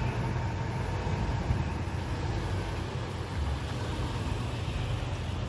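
A vehicle running, heard as a steady low engine rumble with an even hiss over it.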